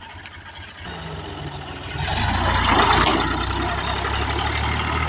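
Diesel tractor engine running with a steady low note that comes in about a second in and grows louder, peaking around three seconds in, then holds.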